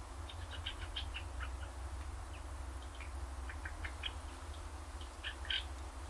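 Small birds chirping: short, high calls in scattered bunches, thickest in the first second and a half, again around four seconds, with the loudest pair near the end. A low steady rumble runs underneath.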